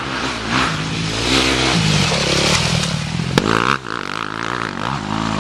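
Motocross dirt bike engine revving hard as the bike rides by on the track, the pitch climbing and dropping as the rider works the throttle and gears. A sharp crack comes about three and a half seconds in.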